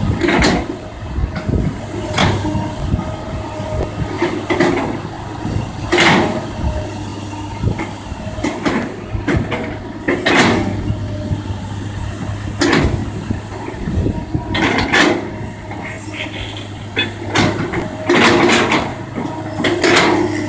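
Kobelco hydraulic excavator's diesel engine running steadily under digging load, with a sudden clank or scrape every couple of seconds as it works.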